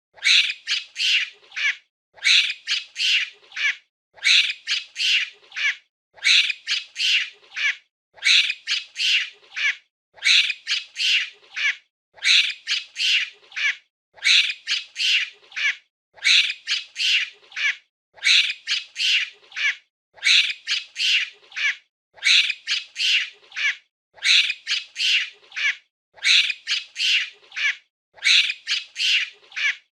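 Monkey calling in a quick run of four or five high-pitched calls, the same cluster repeating about every two seconds with a brief silence between, as a looped recording.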